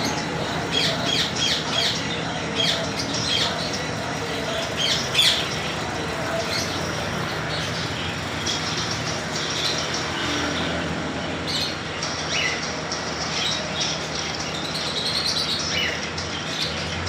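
Sun conures squawking: short, shrill calls in quick clusters, thick for the first several seconds and then more scattered, over a steady background noise.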